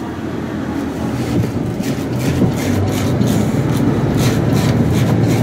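KiHa 110 diesel railcar heard from inside the cabin: its diesel engine runs with a steady low hum, and from about two seconds in the wheels click repeatedly over rail joints and points as the train moves through the station.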